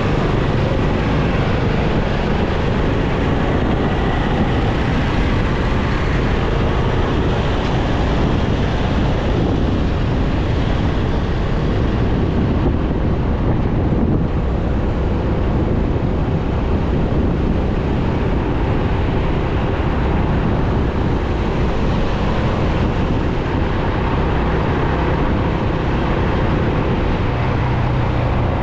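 Motorcycle running steadily at riding speed, with wind rushing over the microphone.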